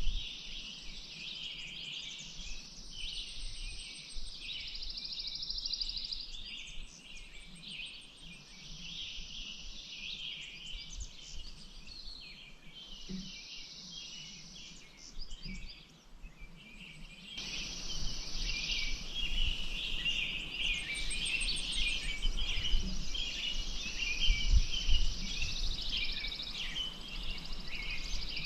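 Many small birds chirping and trilling at once, overlapping continuously, over a soft background hiss that gets louder about two-thirds of the way through.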